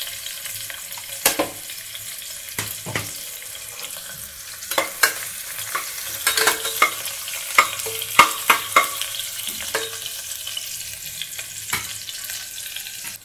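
Sliced onions sizzling steadily in hot oil in an aluminium pressure cooker, while a spoon stirs them and clinks and scrapes against the pot, the clinks coming thickest in the middle.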